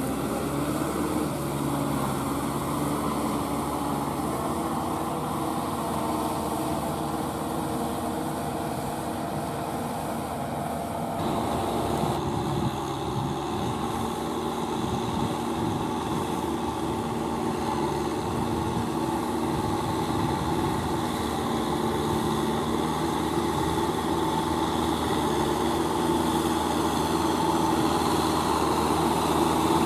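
Kubota M6040SU tractor's diesel engine running steadily under load while rotary-tilling a wet, muddy paddy field. Its sound changes about eleven seconds in.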